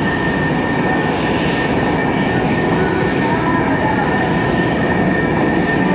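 Extra 300L aerobatic plane's piston engine running steadily overhead, heard as a loud, even drone with no pauses.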